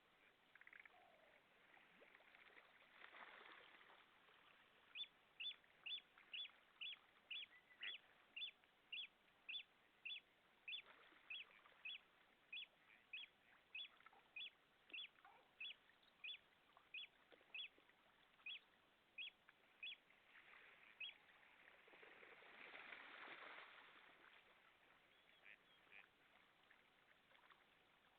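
A bird calling over and over, a short high note about twice a second for some fifteen seconds, then stopping. Two swells of rushing noise sit underneath, one near the start and one after the calls end.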